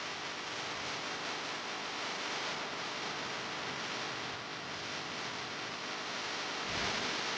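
Steady hiss of broadband noise, with a brief swell and a soft low bump near the end.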